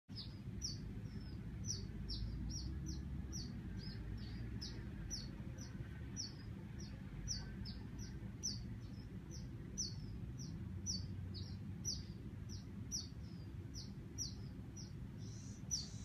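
A small bird chirping over and over, short high chirps at an even pace of about two or three a second, over a steady low rumble.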